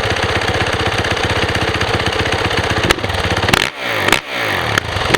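Yamaha YZ450F single-cylinder four-stroke dirt bike engine running at a steady fast idle. From a little past halfway it is blipped on the throttle three or four times, the revs falling away after each blip.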